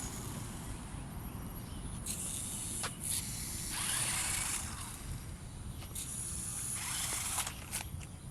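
Remote-control rock crawler driven in short spurts, giving several hissing bursts of about one to one and a half seconds each, over a low steady wind rumble on the microphone.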